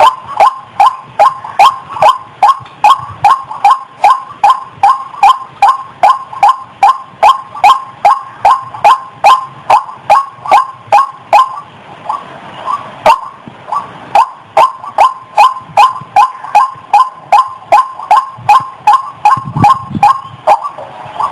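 Female ruak-ruak, a rail sold in Indonesia as the ayam-ayaman, giving its breeding-condition call: a fast, steady series of short, sharp notes, about two or three a second, that falters briefly about midway. It is the call used as a lure to draw the birds in.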